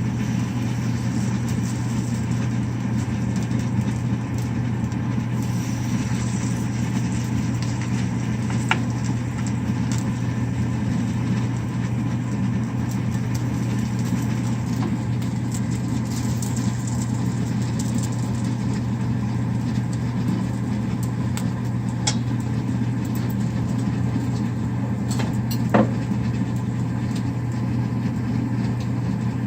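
Steady low machine hum, with a few light clicks.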